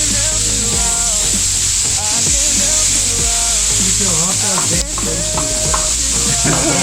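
A vegetable stir fry with soy sauce sizzling hard in a hot pan as it is stirred. The hiss is loud and steady.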